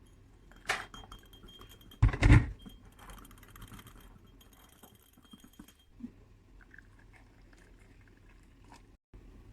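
Tea-making utensils clinking and scraping as matcha powder is mixed in a cup, with a loud knock about two seconds in and faint scraping and rattling after it.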